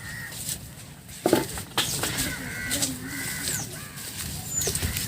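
Crows cawing repeatedly, with a few short, high, falling whistles from small birds. Two short sharp knocks come about a second and a half in.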